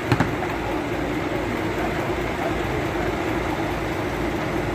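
Boom truck's engine running steadily, with two sharp knocks just after the start.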